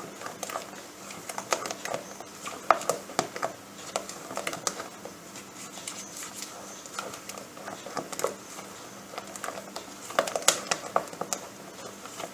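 A kitchen utensil stirring a thick creamy dessert mixture by hand in a bowl, with irregular clicks and taps against the bowl's side.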